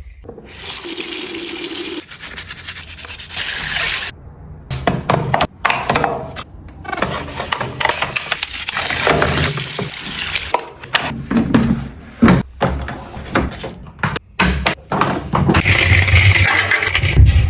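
A run of short cleaning clips: running and splashing water mixed with scrubbing and wiping, each clip cut off abruptly.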